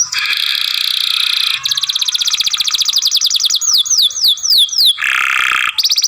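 Young canary singing a long, unbroken phrase. It opens with a buzzy roll, then a fast trill of evenly repeated notes. About four seconds in come a few falling whistled notes, then a lower roll, and a high, very fast trill near the end.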